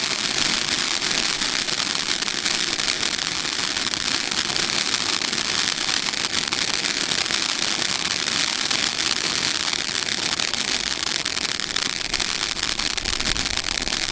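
'Delirium' consumer firework display going off in a dense, steady crackle of rapid small pops, without a break.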